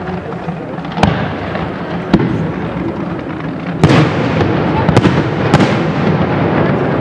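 Fireworks display: aerial shells bursting with sharp bangs over a continuous rumble, single bangs about one and two seconds in, then a denser, louder run of bangs from about four seconds on.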